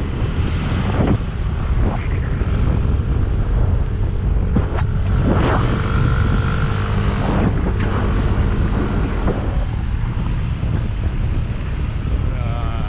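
Jeepney engine running as it drives along, with wind buffeting the microphone in a loud, steady rumble.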